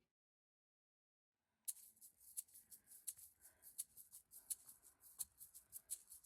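Brief dead silence, then a run of faint, sharp, irregular clicks, about four or five a second.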